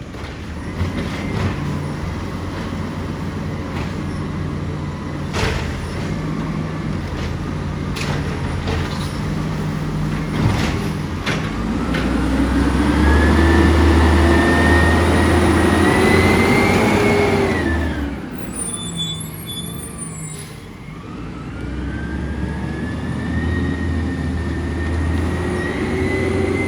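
Side-loader garbage truck with a few sharp clanks, then its engine revving up, dropping back about two-thirds of the way through, and revving up again.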